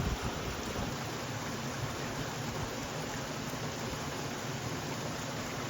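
Steady, even rush of flowing water in a wadi stream.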